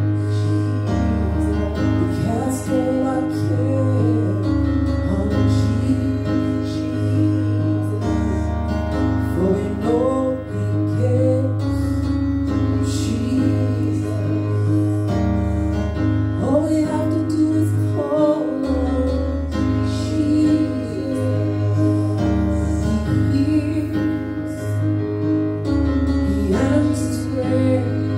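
Church praise team performing a gospel worship song: singers, mostly women's voices, over keyboard chords with a held bass line that changes every couple of seconds.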